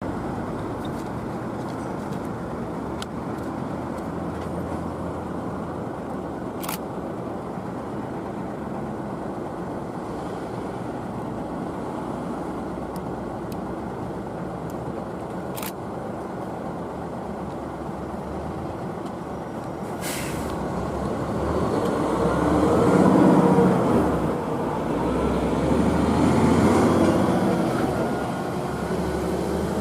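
Electric locomotive Deki 505 hauling a Tobu 9000-series train approaches: steady outdoor background noise with a few sharp clicks, then from about two-thirds of the way in the train's running noise grows loud, with motor whine and wheels on the rails.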